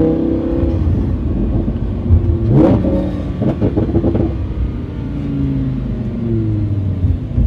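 Sports car engine heard from inside the cabin while driving. About two and a half seconds in, a quick rising rev with crackles; afterwards the engine note slowly falls in pitch as the car eases off.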